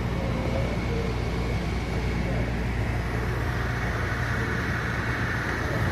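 Interior running noise of a JFK AirTrain car on its guideway: a steady low hum and rumble, with a high whine that grows louder in the second half as the train nears its next stop.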